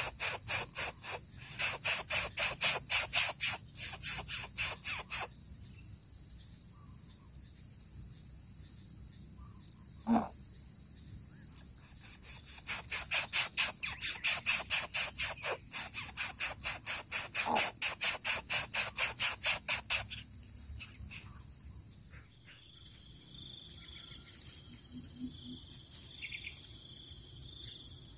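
Insects calling: a steady high drone, overlaid in two long bouts by loud rhythmic pulsing at about two or three pulses a second. The first bout runs for roughly the first five seconds, the second from about twelve to twenty seconds. Two brief faint calls come between the bouts.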